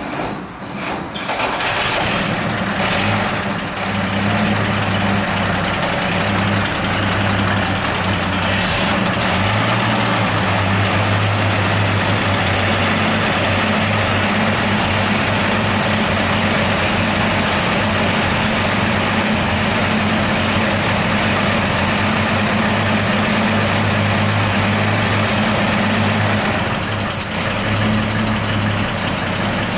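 1948 Chevrolet Loadmaster 2-ton truck's straight-six engine running steadily at a low, even rumble, just back to life after sitting in the barn all winter and spring.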